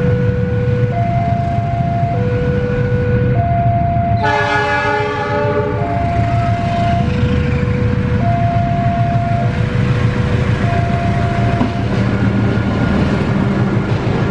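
Level-crossing warning alarm sounding a two-tone chime that alternates about every second, over the low rumble of a CC 201 diesel-electric locomotive approaching. About four seconds in, the locomotive's horn blows once for about a second and a half.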